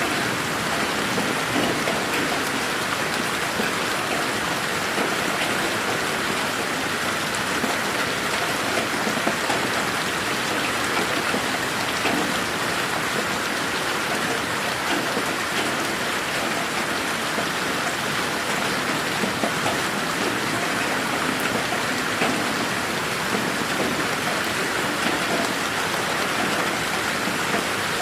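Steady rain falling, with many fine drops pattering on surfaces; an even, unbroken hiss.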